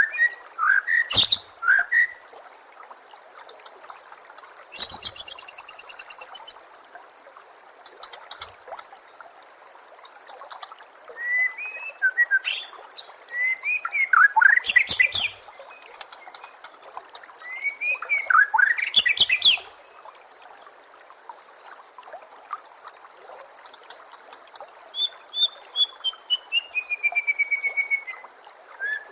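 White-rumped shama (murai batu) singing a varied song of loud whistles, quick glides and rapid rattling note series, with a long run of falling notes near the end. Steady trickling water runs underneath.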